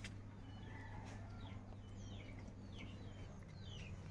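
Birds calling faintly: a run of short falling chirps, about two a second, over a steady low hum.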